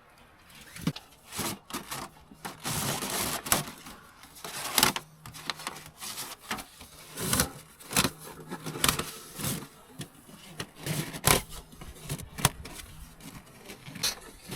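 Irregular clicks, knocks and scrapes, like gear being handled, with a faint steady hum in the middle stretch.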